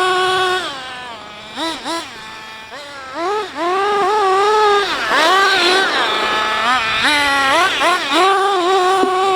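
Small nitro engine of a Team C Stoke N RC car revving hard and letting off repeatedly, its high pitch rising and falling with each throttle blip. It drops to a lower, quieter idle between about one and three and a half seconds in, then holds at high revs near the end.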